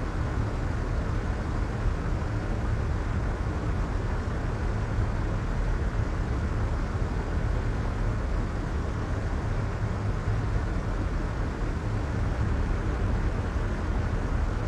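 Soft white noise: a steady, unchanging rush with most of its weight in the low end and little hiss on top, like a deep, muffled rumble.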